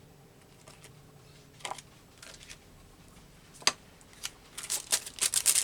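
Rubber stamps and paper being handled on a work table: scattered small clicks and rustles, one sharp click a little past halfway, then a quick run of rustling and clicking near the end.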